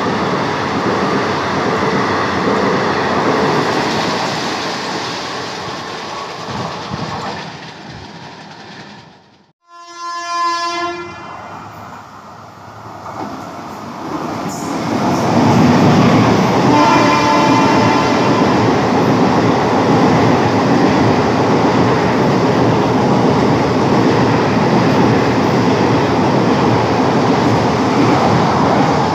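An express train passes through a station at speed, its coaches rumbling and clattering, and fades into the distance. After a brief drop-out, a second through train sounds its locomotive horn about a third of the way in as it approaches. It sounds the horn again as it arrives, then its coaches rush past with a loud, steady rumble.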